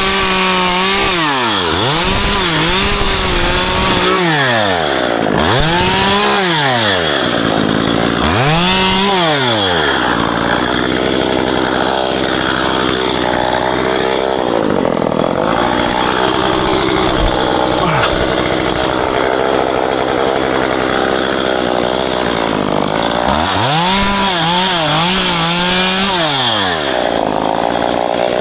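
Gas chainsaw pruning ficus branches: the engine is revved up and let back down over and over, then held at a steadier, lower pitch for about thirteen seconds while it cuts, before the revving starts again near the end.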